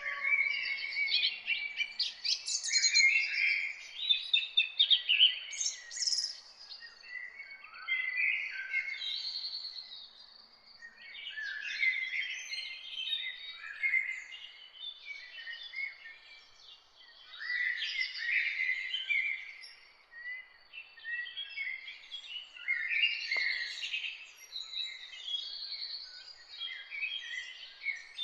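Several songbirds chirping and trilling in an overlapping chorus, a run of quick high notes that thins out now and then and picks up again, over a faint steady hiss.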